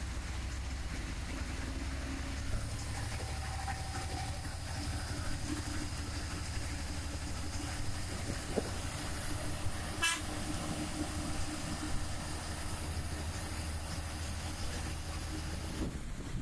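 A vehicle running along a wet road in the rain: a steady low engine-and-road rumble with a hiss of rain and tyres, and a single sharp click about ten seconds in.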